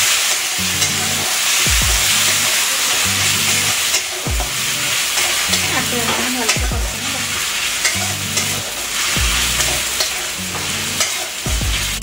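Onions, green chillies and ginger-garlic paste sizzling in hot oil in an aluminium kadai, stirred and scraped steadily with a metal spatula.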